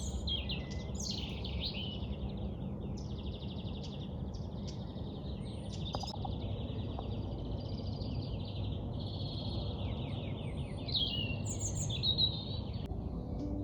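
Birds singing and chirping without a break, several overlapping trilled and sweeping songs, over a steady low background rumble.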